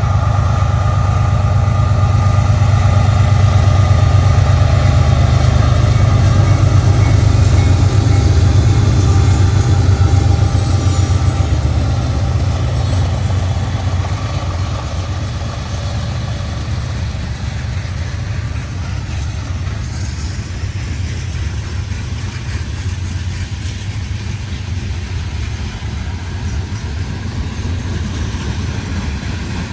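Diesel-hauled freight train passing close by, with a heavy low engine rumble loudest for the first ten seconds or so, then settling into the steady rumble of the cars rolling past.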